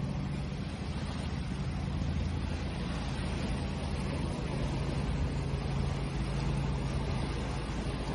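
Ocean waves washing in a steady, continuous rush, with a low steady hum underneath.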